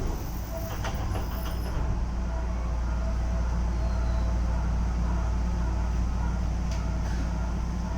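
Keisei 3400 series electric train running, heard from inside the car: a steady low rumble with faint steady tones above it. There are a few clicks about a second in and another near the end.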